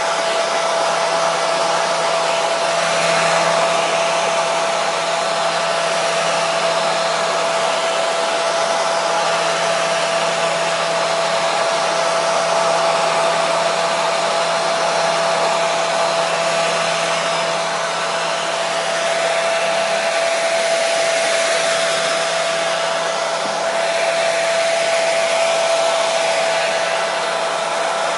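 Hair dryer running continuously with a steady blowing noise and a constant motor whine.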